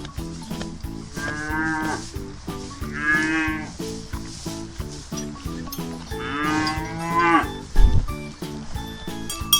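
A cow mooing three times, the last call the longest, over light background music.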